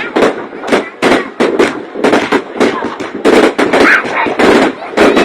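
Fireworks bursting in a rapid, irregular string of loud bangs, several a second.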